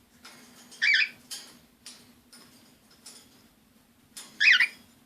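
Cockatiel chirping: two short, quick warbling calls, one about a second in and a louder one near the end.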